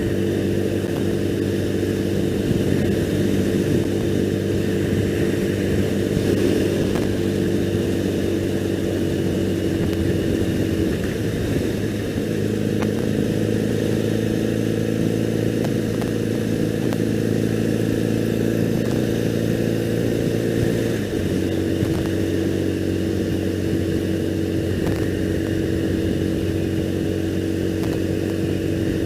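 2001 Triumph Bonneville's air-cooled parallel-twin engine running steadily under way. Its note shifts about eleven seconds in and drops sharply at about twenty-one seconds, as with a change of gear or throttle.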